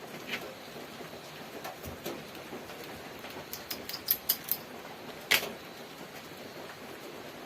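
Light, sharp clicks and taps of small hard objects being handled, a quick run of them about four seconds in and one louder click just past five seconds, over a steady hiss.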